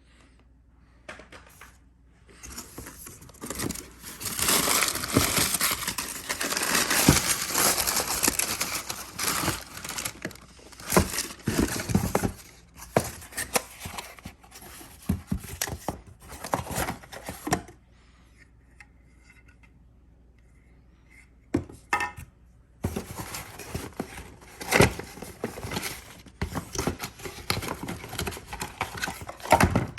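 Packaging from the unboxing being handled, torn and crumpled by hand: irregular bursts of rustling and crinkling, with a lull of a few seconds past the middle.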